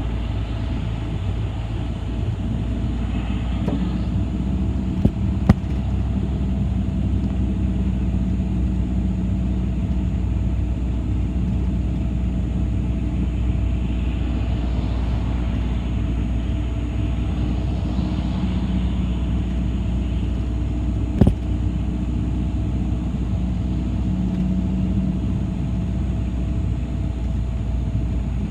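City bus on the move: steady engine and road rumble, with two sharp knocks about five seconds in and another about two-thirds of the way through.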